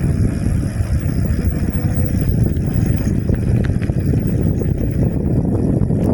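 Steady wind buffeting the microphone with road rumble while riding an e-bike.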